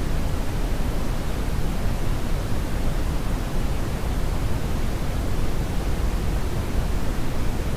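Brownian (red) noise: a steady, even rushing hiss, weighted heavily toward the deep end and thinning out in the highs, with no changes or events.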